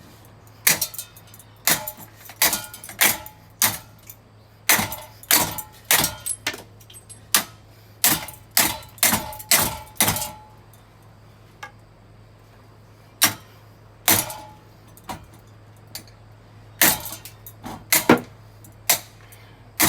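A ceiling fan and its light fixture being smashed with repeated blows: a long series of sharp impacts, with metal parts and broken glass clattering and jingling after them, and a pause of about two seconds about halfway through.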